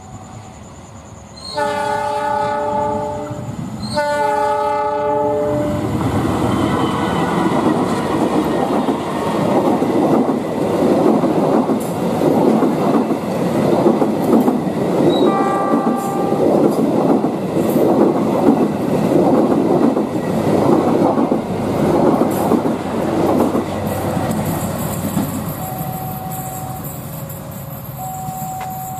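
Diesel locomotive horn giving two long blasts of a chord-like tone. A passenger train then runs past close by with its wheels clattering rhythmically over the rail joints, with one short horn toot partway through, and the rumble fades as it moves away.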